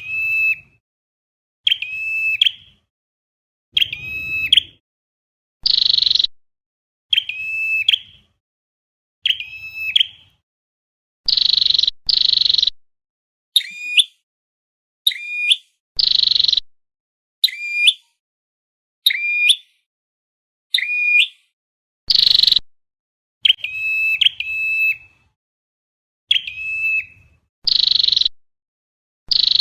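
Looped recording of flowerpecker calls: short, high-pitched notes repeating about every second or so, alternating a raspy buzzing note with sharp ticking calls. This is the lure call used to attract the bird.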